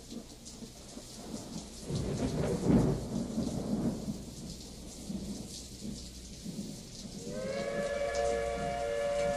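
Steady rain with a low rolling rumble of thunder, loudest about two to three seconds in. Near the end a held musical chord fades in over the rain.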